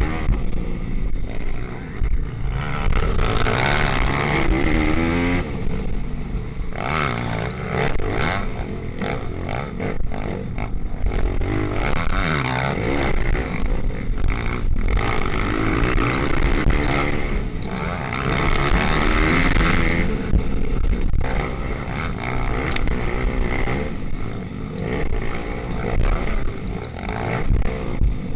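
Pit bike engines racing, revving up and dropping off again and again, so the pitch keeps rising and falling.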